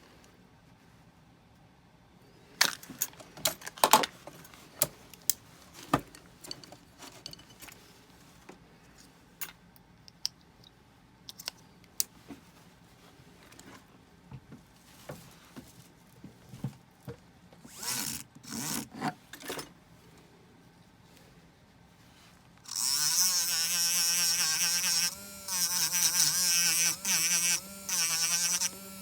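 Small hand tools clicking and tapping against metal at irregular intervals. About three-quarters of the way through, a small electric rotary tool starts with a steady, loud high buzz, dropping off briefly a few times before running on.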